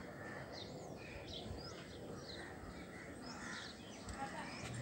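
Birds calling outdoors: many short, high chirps a few times a second over a steady background hiss.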